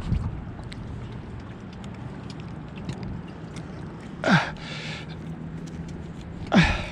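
Strong wind buffeting the microphone with a steady low rumble. An angler straining to play a hooked carp lets out two short groaning breaths that fall in pitch, one about four seconds in and one near the end.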